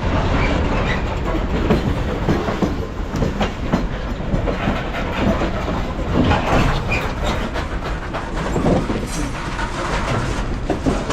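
Freight train rolling past close by, its wagon wheels clattering over the rail joints in a steady stream of irregular knocks.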